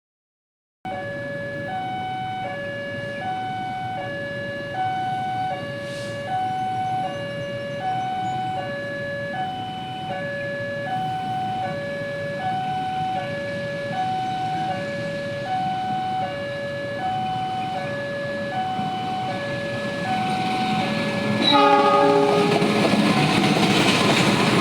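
Railway level-crossing warning alarm sounding a steady alternating two-tone signal, high-low about once a second. About three-quarters of the way through, the noise of an arriving train swells up loud over the alarm.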